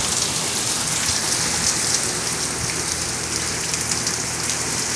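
Heavy hurricane rain driven by strong wind: a steady loud hiss, with many small drop ticks close to the microphone.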